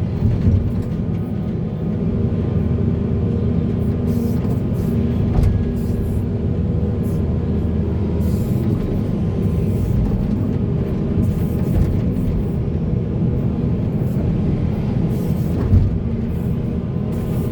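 Heavy diesel earthmoving machinery, a hydraulic excavator and articulated dump trucks, running steadily, with a few short knocks.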